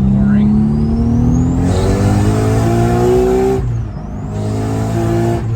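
Nissan Skyline's 2.8-litre HKS straight-six with a big HKS T51R KAI ball-bearing turbo, pulling hard at full throttle in third gear, its pitch climbing while a turbo whistle rises steeply and a rush of boost noise comes in suddenly about two seconds in. A little before four seconds in the engine note drops and the whistle falls away briefly at a gear change, then the engine and boost noise pick right back up.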